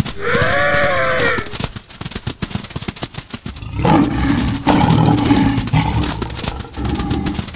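Animated-cartoon sound effects: a lion roaring for about two seconds around the middle, over a fast patter of running footsteps. Near the start there is a short high call that rises and falls.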